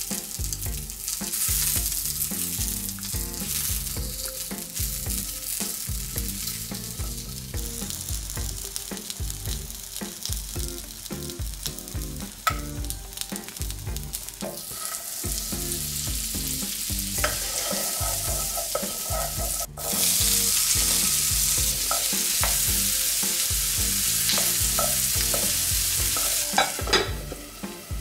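Sausage links frying on the hot nonstick plate of an Elite Cuisine personal electric skillet, a steady sizzle. After a sudden cut about two-thirds in, a louder, brighter sizzle as diced onions and peppers cook, with a few clicks near the end.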